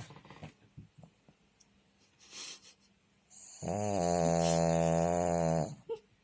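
Pug snoring in its sleep: a faint breath, then one long, loud snore of about two seconds a little past halfway.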